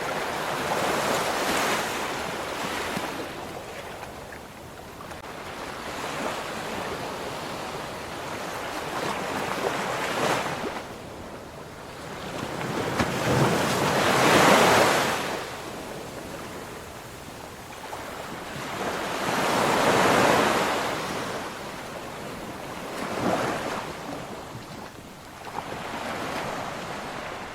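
Ocean waves breaking and washing on a shore, surging in a new swell every few seconds, the biggest about halfway through.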